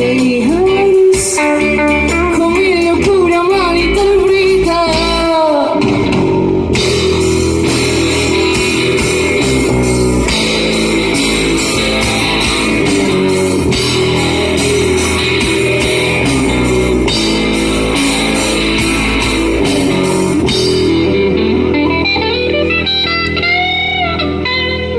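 A live rock band playing an instrumental passage. A lead line with bending notes rides over the band for the first few seconds. From about six seconds in, the full band plays with drums and cymbals, then thins out near the end.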